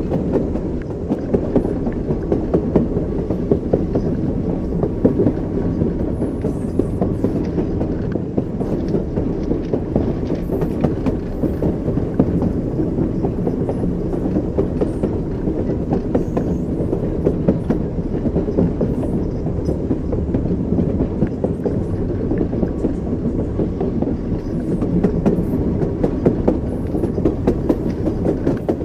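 Train running at speed, heard as a steady low rumble of wheels on track with a continual rattle of clicks and knocks from the rail joints.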